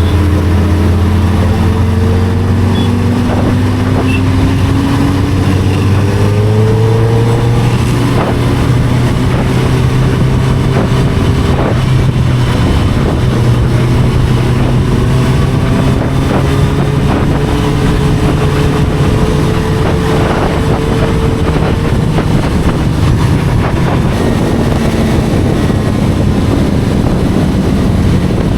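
Inline-four sport motorcycle engine under way, its pitch rising over the first several seconds as it accelerates, then holding steady at cruising speed, with wind rushing over the microphone.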